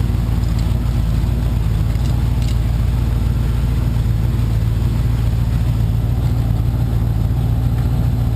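1977 Camaro's 350 small-block V8 idling steadily.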